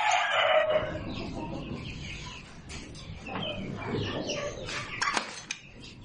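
Birds calling: a long loud call that falls in pitch and fades in the first second, then a run of short calls, with a couple of sharp clicks about five seconds in.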